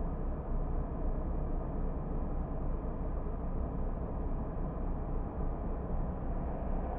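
A car driving along at a steady pace: an even, low rumble of engine and tyre road noise.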